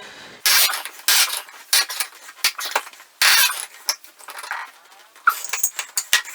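Hand tool scraping and clicking in irregular short strokes against a stuck plastic faucet part as it is forced to turn, with small metallic clinks.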